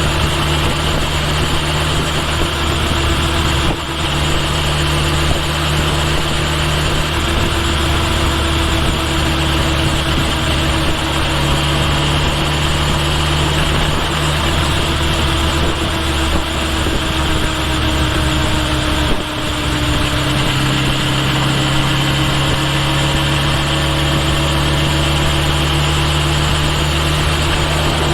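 Kawasaki Ninja H2 SX motorcycle's supercharged inline-four engine running steadily while riding, picked up close at the rear of the bike, with wind and road noise. There are brief dips in level about 4 and 19 seconds in, and the engine note shifts slightly at several points.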